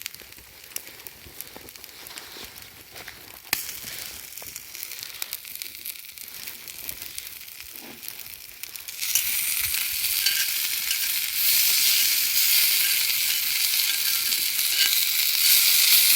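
Food sizzling as it cooks over a campfire, much louder from about nine seconds in. Before that, lighter crackling and the odd sharp click.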